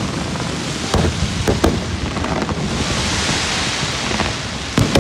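Fireworks display: a few sharp bangs of shells bursting, about a second in, twice more shortly after, and again near the end, over a continuous hiss and rumble.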